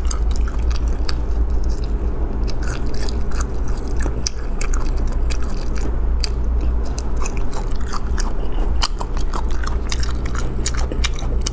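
Close-miked chewing and biting of chewy braised meat, with many irregular sharp wet mouth clicks and smacks.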